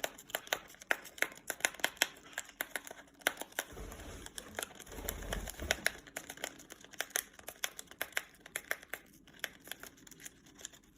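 A pet parrot tearing open a tea packet with its beak: a run of irregular crinkles, rips and snaps of the wrapper, with a soft low rumble of handling in the middle.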